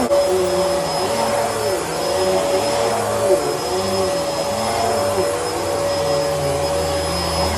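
Bissell Helix vacuum cleaner running steadily, with a constant whine over its motor noise and lower tones that rise and fall.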